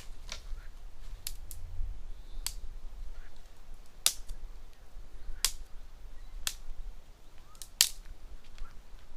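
Campfire crackling under a cauldron just fed more firewood: sharp, irregular pops of burning wood, roughly one a second, over a low rumble.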